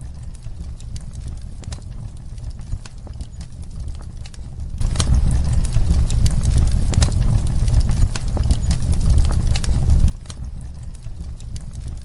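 Fireplace fire crackling over a low steady rumble, with scattered sharp pops. The sound suddenly grows louder and denser about five seconds in, then drops back abruptly about five seconds later.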